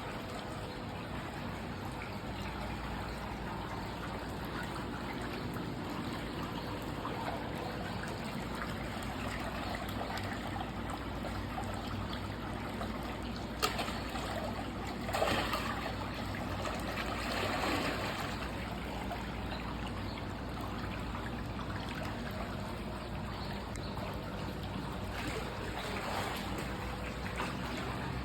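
Water trickling and flowing steadily, as in a natural stream, with a sharp click about fourteen seconds in and brief louder swells of water noise a little after it.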